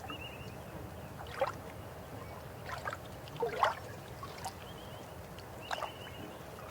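River water flowing, with a steady rush and several gurgles and plops breaking through it, the loudest about three and a half seconds in.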